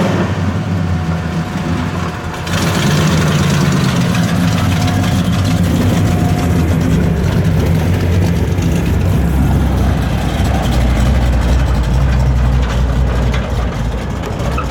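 Custom Plymouth Road Runner's V8 engine idling, heard through its exhaust as a steady, low, loud rumble. It gets louder about two and a half seconds in.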